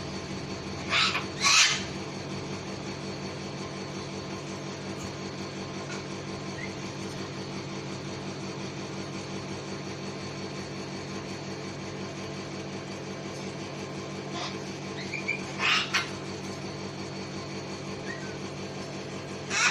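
Cockatoo giving short, harsh screeches: a pair about a second in, another pair well past the middle, and one at the very end, over a steady low hum.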